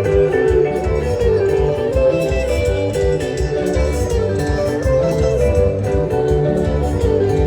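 Live band music led by guitars, with a steady beat and no singing.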